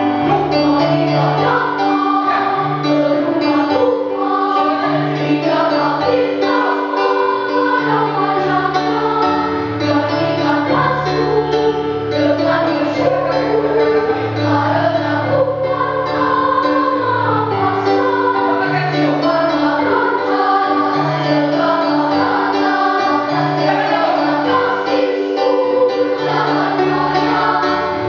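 Elementary school children's choir singing a song, over instrumental accompaniment with a low bass line that changes note about every second.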